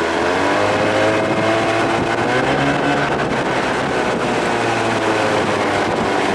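Evinrude 25–30 hp two-stroke outboard running steadily at speed under way, its pitch wavering slightly, with wind noise on the microphone.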